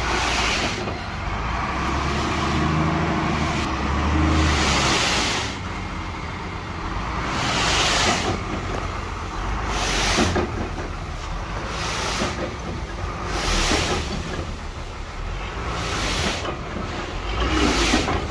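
Heavy vehicle engine running with a steady low rumble, overlaid by hissing surges of noise that come every couple of seconds.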